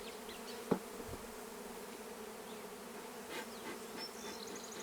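Honeybees buzzing steadily in a dense mass around an open hive, with one sharp knock about two-thirds of a second in.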